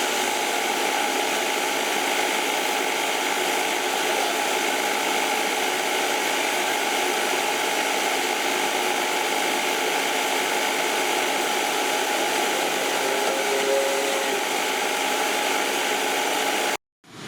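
A motor running steadily, a loud even noise carrying several steady tones, which cuts off suddenly near the end.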